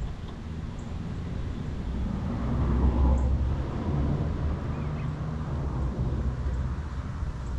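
Low, steady outdoor rumble that swells about three seconds in, with a few faint bird chirps over it.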